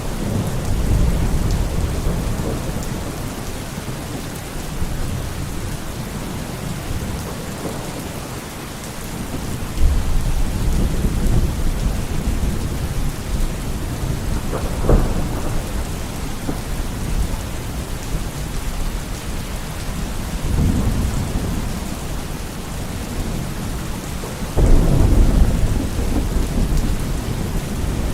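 Steady heavy rain with rolling thunder: low rumbles swell up several times, and there is one sharper crack about halfway through.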